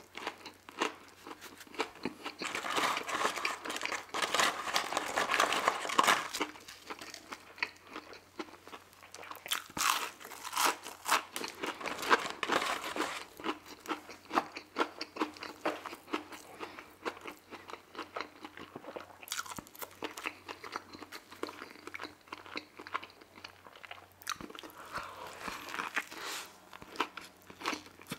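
Close-up chewing of a crispy fried chicken sandwich: crunching bites and chewing, loudest in three dense stretches, near the start, in the middle and near the end.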